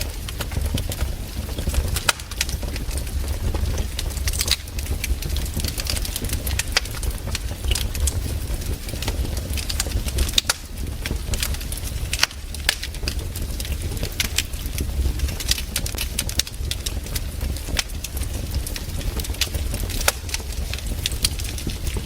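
Campfire burning, its wood crackling and popping in irregular sharp snaps over a steady low rumble.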